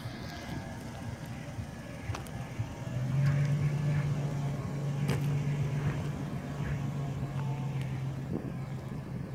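Toyota FJ Cruiser's 4.0-litre V6 idling steadily, getting louder about three seconds in.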